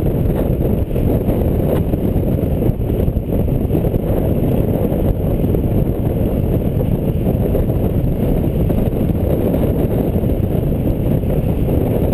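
Steady low rumbling rush while riding a buttboard: wind buffeting the microphone mixed with the board's wheels rolling over pavement.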